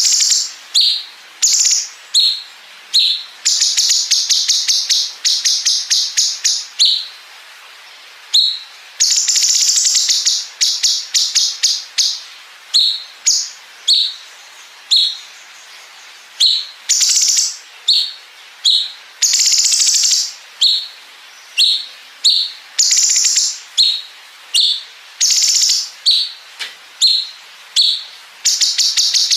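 Cucak cungkok bulbul singing a rapid, high-pitched song. Long rattling trills, the cicada-like 'bren' passages, alternate again and again with short, sharp chirps.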